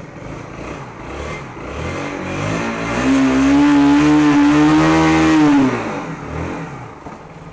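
A vehicle engine rising in pitch and loudness, holding a steady loud note for about three seconds, then dropping in pitch and fading away.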